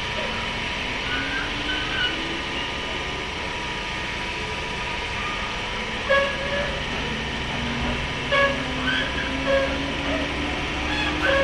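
Running sound inside a JR 103 series motor car: a steady rumble of wheels on rail, with the MT55 traction motors' faint low whine rising in pitch as the train gathers speed. A few short, sharp sounds stand out above the rumble about halfway through and near the end.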